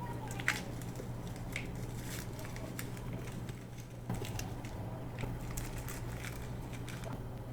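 Packets of beads being handled and opened: light plastic crinkling with scattered small clicks of beads, over a steady low hum.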